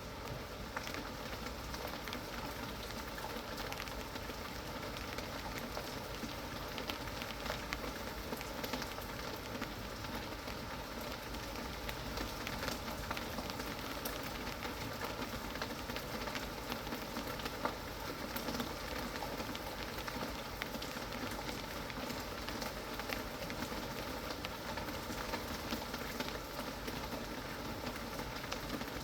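Steady rain falling, with many small drop ticks on a surface.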